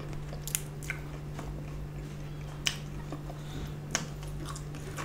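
Close-miked chewing of a mouthful of chicken-nugget shawarma in lavash, with several sharp, wet mouth clicks over a steady low hum.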